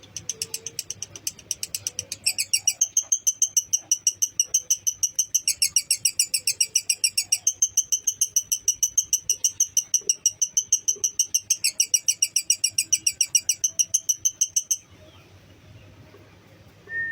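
Lovebird's long 'ngekek' chatter: a rapid, even run of high chirps, about seven a second, shifting between two pitches several times before stopping abruptly near the end.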